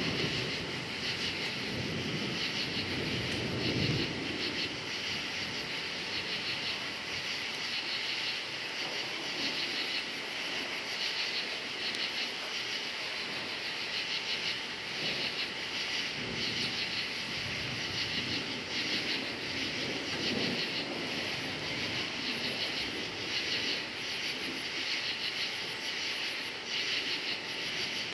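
Crickets chirping in a steady, dense chorus, with low rumbles of thunder in the first few seconds and again around the middle.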